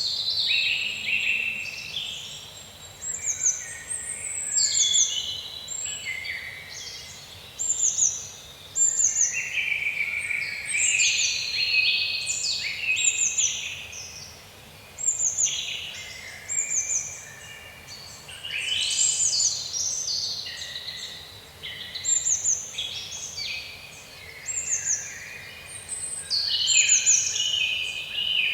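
Several songbirds singing together in woodland: short, high, falling notes repeat about once a second over lower, warbling phrases, with several songs overlapping.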